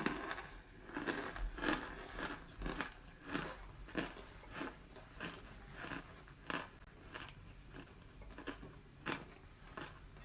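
Chunks of cornstarch being bitten and chewed close to the microphone, a steady run of dry crunches about two a second.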